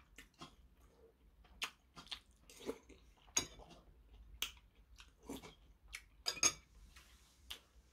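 A man chewing a spoonful of cheonggukjang (fermented soybean stew) with rice, with irregular mouth clicks and lip smacks.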